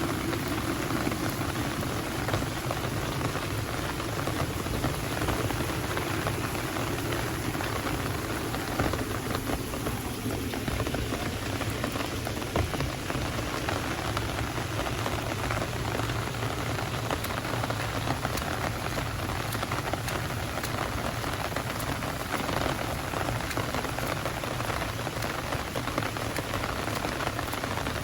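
Heavy rain falling steadily, a dense hiss with many close drops pattering.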